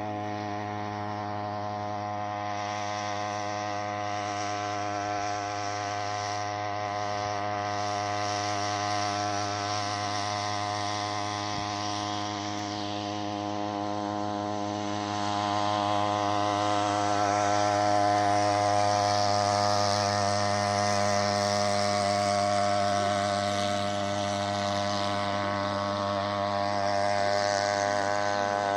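Small 3 hp outboard motor running steadily, a buzzing engine note that grows somewhat louder about halfway through.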